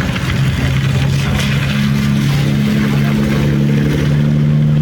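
Car engine running at steady revs, a constant drone that settles in about half a second in and holds nearly the same pitch, with road noise underneath.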